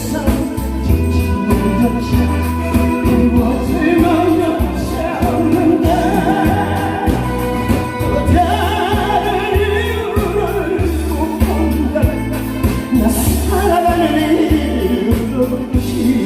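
Korean trot song sung live by a single vocalist over accompaniment with a steady bass beat.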